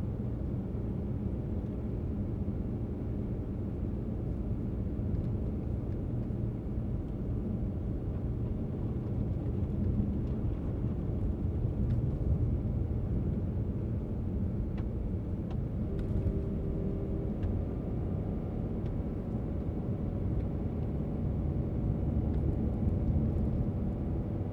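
Car driving: a steady low rumble of engine and tyres on the road.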